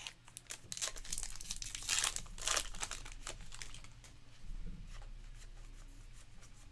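A baseball card pack wrapper being torn open and crinkled by hand: a quick run of crackling and tearing, loudest about two seconds in, then quieter rustling as the cards are handled.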